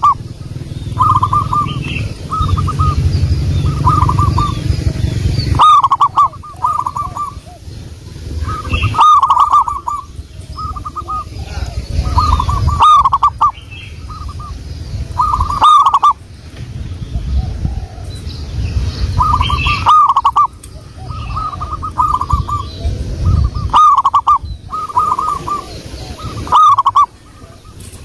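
Zebra dove (perkutut) cooing its song over and over: each phrase opens with a strong note followed by a quick run of short coos, repeating every few seconds. A low rumble comes and goes underneath.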